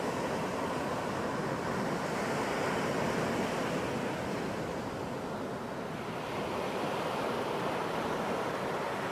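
Ocean surf washing onto a beach: a steady wash of breaking waves that swells and eases, with a new wave building about two-thirds of the way through.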